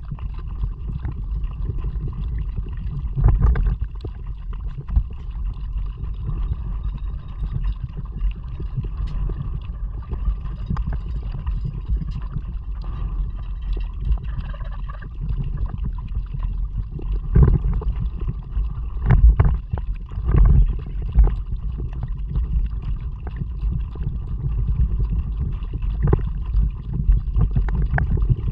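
A kayak moving through water, picked up by a boat-mounted action camera: a steady, muffled low rumble of water and wind, with a few louder knocks and thumps.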